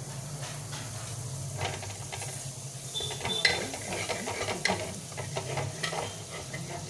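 Butter sizzling in a hot kadai while a metal spatula scrapes and clicks against the pan, the clicks starting about a second and a half in and coming several times a second. A steady low hum runs underneath.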